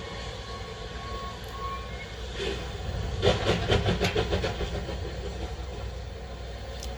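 Rebuilt Bulleid Merchant Navy Class 4-6-2 steam locomotive 35005 Canadian Pacific pulling away with a train: a steady low rumble, with a quick rhythmic run of sharp beats, about eight a second, beginning about three seconds in and lasting a second or so.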